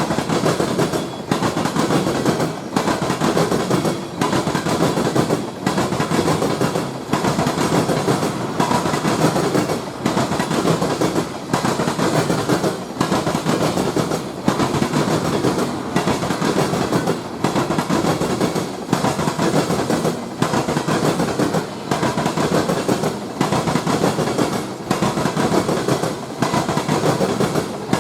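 A train's cars rolling past, the wheels clattering in a steady, even rhythm that repeats about every second and a half.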